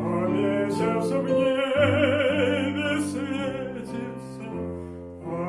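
Male voice singing a slow lyrical song in classical style over instrumental accompaniment, holding a note with vibrato in the middle.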